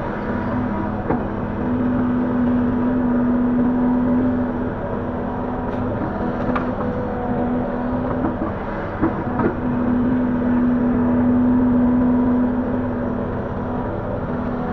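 Link-Belt 145X3E hydraulic excavator's diesel engine and hydraulics running steadily while working, the engine note strengthening twice as it takes load, with a few short knocks.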